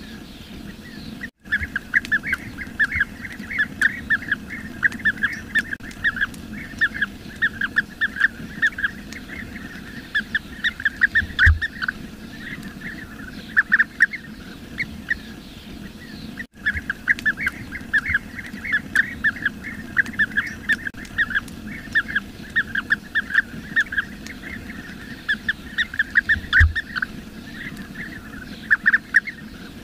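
Bee-eaters calling continuously, a dense chatter of short, rapid, rolling chirps from several birds overlapping, with two brief drop-outs to silence.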